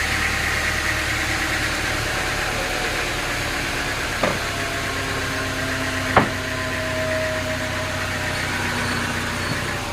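An engine running steadily at idle, with two sharp knocks about four and six seconds in.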